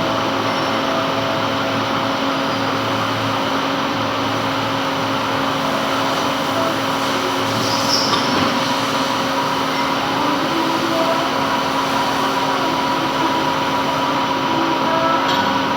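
Metal lathe running steadily while turning a gland: an even machine noise with several steady tones held throughout, and a few light clicks near the end.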